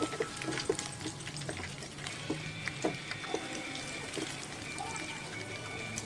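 Batter-coated chicken pieces frying in hot oil at medium heat: a steady sizzle with frequent small pops and crackles.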